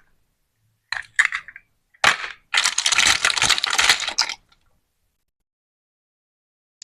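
Plastic toy fruit being cut with a toy knife: three bursts of rapid crackling, the last and longest lasting nearly two seconds.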